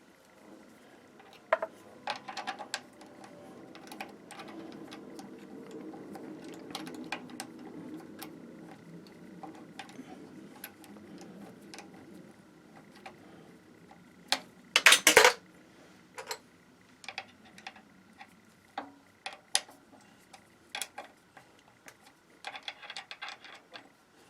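Drilling a clearance hole in a metal workpiece: a low cutting hum lasts several seconds, then metal tools and parts click and clink, with one loud metallic clatter midway.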